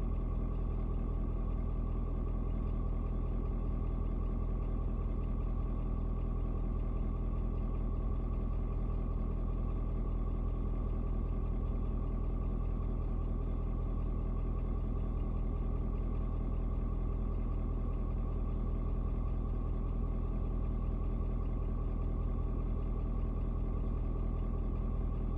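Ford Super Duty's 6.7-litre turbo-diesel V8 idling steadily, still cold about eleven minutes after a cold start, with the coolant temperature not yet up.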